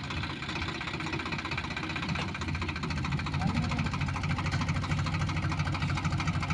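Swaraj 735 tractor's three-cylinder diesel engine running steadily with a fast, even beat.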